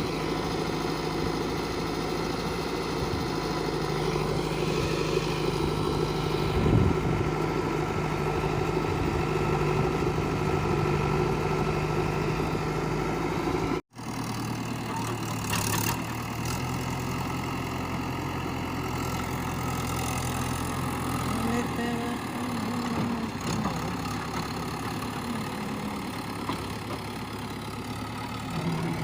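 Diesel engines of a backhoe loader and farm tractors running steadily, mostly at idle. The sound drops out for an instant about halfway through and resumes at a slightly lower engine pitch.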